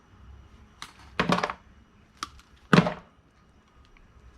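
A few knocks and clunks of scrap pieces being handled and set down: a light tap just under a second in, a short cluster of clunks around a second and a half, a click, then the loudest single knock near three seconds.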